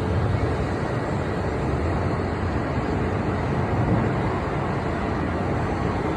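E5-series Shinkansen train pulling out of the station and picking up speed, a steady loud running noise as the cars roll past.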